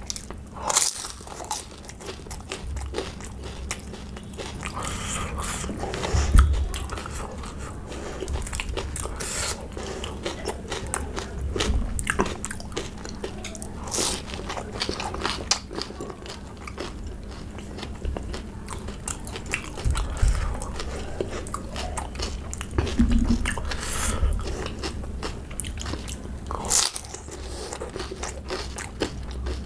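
Close-miked eating: crisp pani puri shells and raw green chillies being bitten, crunched and chewed, with irregular crunchy clicks throughout and a few heavier bites, the loudest about six seconds in.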